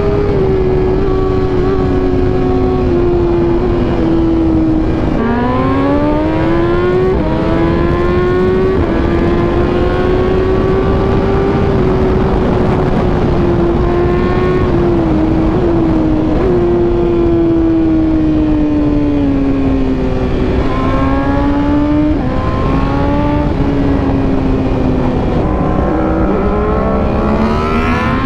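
Superbike engine running at speed, its note falling as the bike eases off and rising again as it accelerates, with a few quick dips at gear changes. Heavy wind rush runs underneath it.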